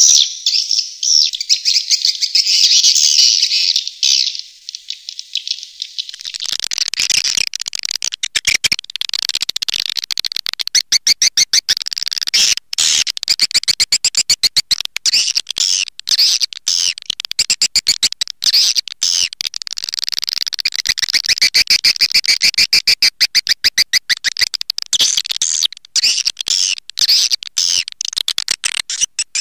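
Recorded swiftlet calls played as a lure ('calling' sound for swiftlet houses): high, rapid chirping and twittering. About six seconds in, a fast rattling series of clicks joins the chirps and carries on.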